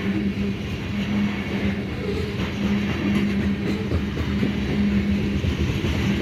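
Loaded tank cars of a unit crude oil freight train rolling past, with a steady rumble of wheels on rail and a low hum that swells and fades.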